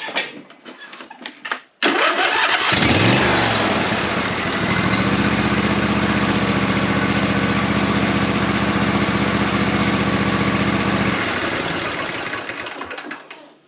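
Two-cylinder Briggs & Stratton lawn tractor engine on its first start attempt after a valve-clearance adjustment. About two seconds in it is cranked, rises in pitch and catches, runs steadily for about six seconds, then cuts out about eleven seconds in and winds down.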